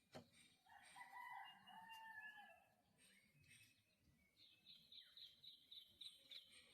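A rooster crowing once, faint, in one drawn-out call. A few seconds later a small bird sings a quick run of repeated high notes.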